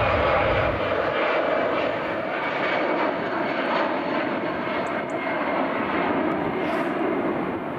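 Airbus A319 jet airliner departing: steady jet engine noise, with the deepest rumble dropping away about a second in.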